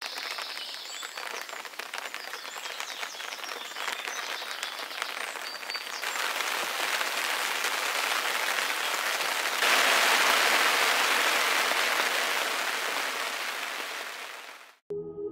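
Steady rain, growing heavier in two steps about six and ten seconds in, then fading out. Faint high chirps sound over the first few seconds, and music starts at the very end.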